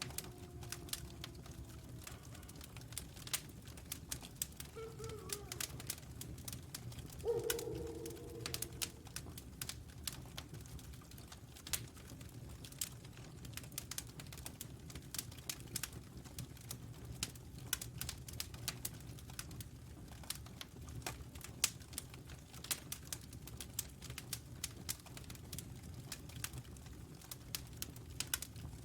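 Crackling wood fire, with pops and snaps throughout over a low steady rumble, and distant wolves howling: a falling howl at the very start, a short howl about five seconds in, and a louder howl lasting about two seconds from around seven seconds in.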